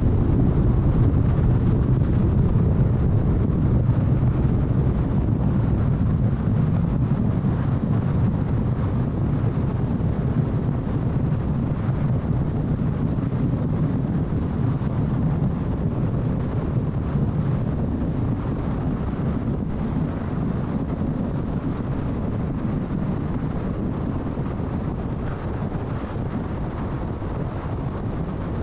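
Steady road noise of a car at freeway speed: low tyre and engine rumble with wind, slowly getting quieter over the stretch.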